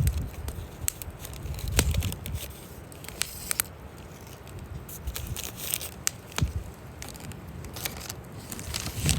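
Wood fire crackling, with sharp pops scattered irregularly through it. A low rumble of wind on the microphone is strongest in the first couple of seconds.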